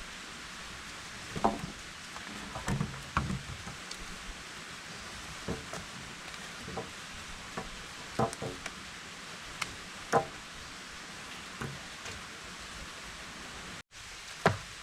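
Scattered knocks and clatters of hard objects being handled, about a dozen at irregular intervals, over a steady hiss. The sharpest knocks come about a second and a half in, about ten seconds in and near the end.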